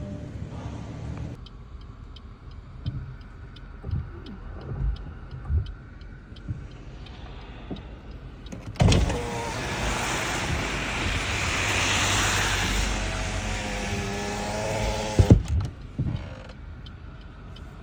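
In a car, light regular ticking over a low hum. About nine seconds in, a power window motor runs for about six seconds, its whine rising near the end, then stops with a thump.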